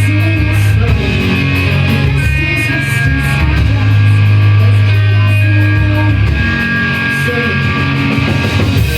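Rock band playing live and loudly: electric guitar, bass and drums, with cymbal hits in a steady beat.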